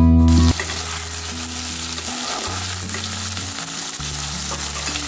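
Potato cubes sizzling in hot oil in an aluminium kadai, stirred with a metal spatula. Guitar music stops about half a second in.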